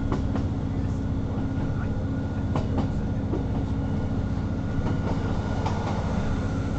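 Interior of a Class 158 diesel multiple unit on the move: a steady low drone of the running train, with a few sharp clicks from the wheels over the track.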